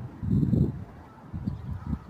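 Wind gusting over the microphone during a spring thunderstorm: uneven low rumbling surges, the strongest about half a second in.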